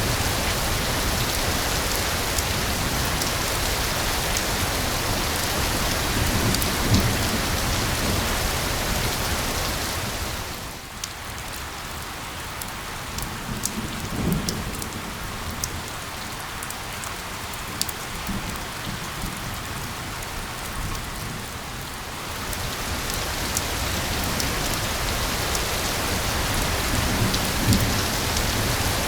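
Steady rain hiss. About a third of the way in it eases to a softer patter with distinct drops, then swells back to full strength near 22 seconds.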